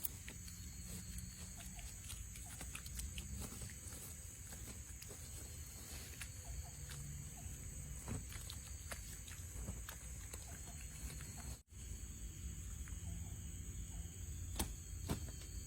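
Scattered small snaps, clicks and knocks of twigs and branches being handled during shelter building, over a steady high-pitched drone of forest insects and a low rumble. The sound drops out for an instant about twelve seconds in.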